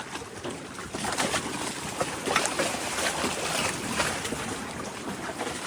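Water lapping and splashing irregularly, with small sharp slaps.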